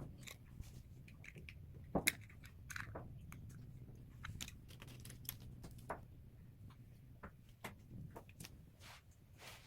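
LEGO pieces being handled and pressed together: scattered small plastic clicks and ticks, the sharpest about two seconds in, over a low steady hum.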